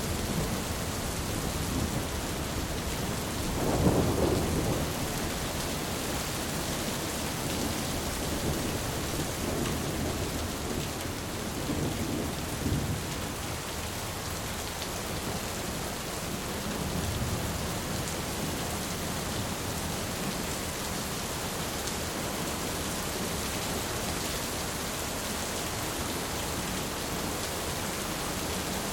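Steady heavy rain with thunder: a rumble of thunder swells about four seconds in, and fainter rolls follow near the middle, over the even hiss of the rain.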